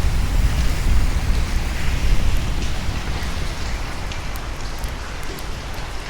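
Steady heavy rain with scattered drop taps, over a low thunder rumble that dies away during the first few seconds.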